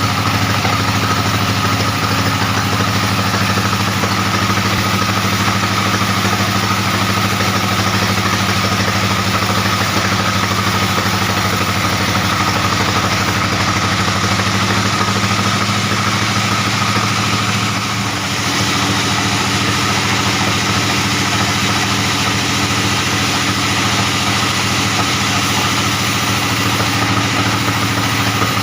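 Large band sawmill running: a steady engine drone with a constant high whine over it, dipping briefly about two-thirds of the way through.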